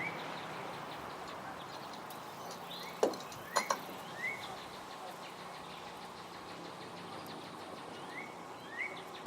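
Short rising bird chirps, repeated several times over a steady background hiss, with a few sharp clicks about three seconds in.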